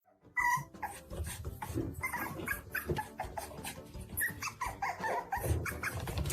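A dog vocalizing in a run of short, rapid pitched calls, starting about half a second in.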